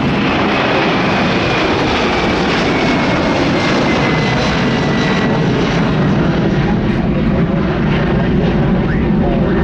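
Jet airliner engines running loud and steady, with a thin whine that slowly falls in pitch over the first half.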